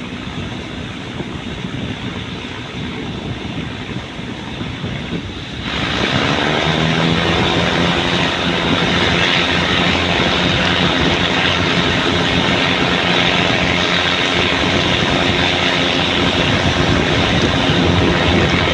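Diesel train engine idling, then throttled up about six seconds in: its note rises quickly and holds loud and steady as the train pulls away from the station.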